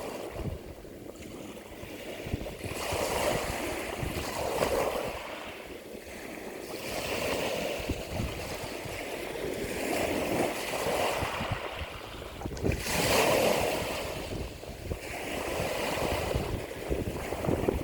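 Ocean waves breaking and washing in, swelling and easing every few seconds, with the strongest wash about thirteen seconds in. A low rumble of wind on the microphone runs underneath.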